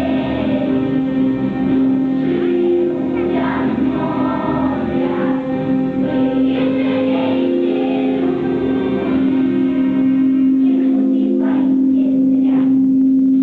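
A children's choir singing a song with musical accompaniment, the voices settling onto a long held note in the second half.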